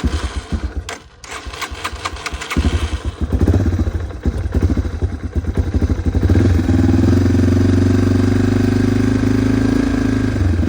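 Dirt bike engine running unevenly and revving for a few seconds, then settling into a steady idle about six seconds in. Knocks and rattles in the first two seconds, before the engine comes up.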